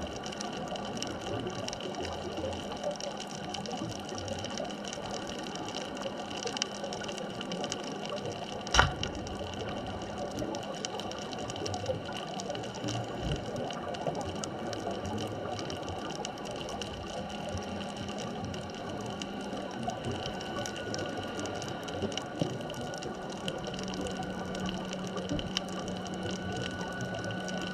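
Underwater ambience heard through a diving camera: a steady crackling hiss with a few steady hums, and one sharp click about nine seconds in.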